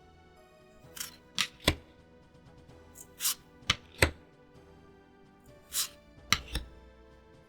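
Trading cards being handled: three times, a short papery swish of a card sliding, then a sharp tap or two as it is set down on the table. Faint music plays underneath.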